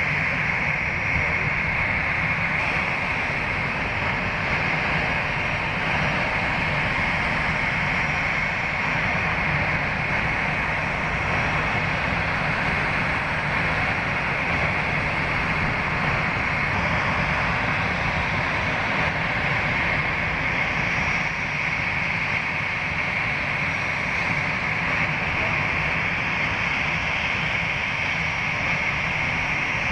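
Jet airliner engines running at a steady, unchanging power: a constant low rumble under a high, even whine, with no rise or fall in loudness.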